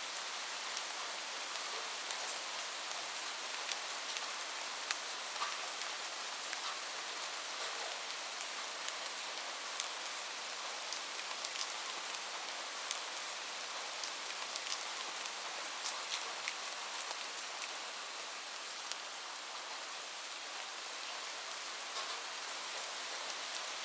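Steady rain falling on a roof: a dense, even hiss dotted with sharp ticks of individual drops striking.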